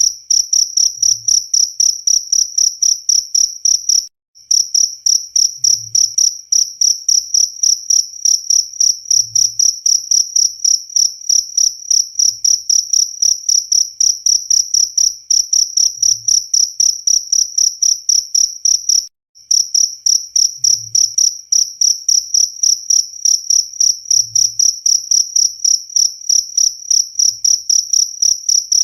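Cricket chirping steadily, a shrill high-pitched trill pulsed about three times a second, cutting out briefly twice.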